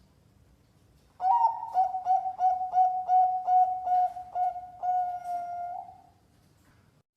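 Zebra dove (perkutut) cooing one song phrase. About a second in comes a quick run of roughly ten short stuttering coos, two or three a second, and the phrase ends on a longer drawn-out note that fades out near six seconds.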